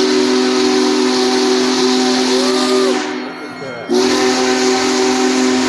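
Union Pacific Big Boy 4014's steam whistle blowing a chord of several notes over a steam hiss: one long blast that stops about three seconds in, then a second blast a second later.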